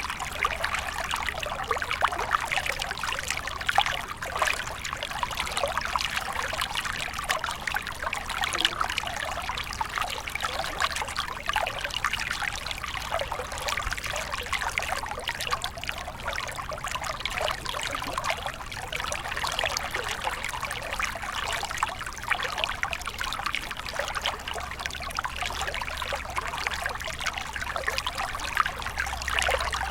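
Small stream of water flowing and trickling steadily, with many small splashes and bubbling flickers.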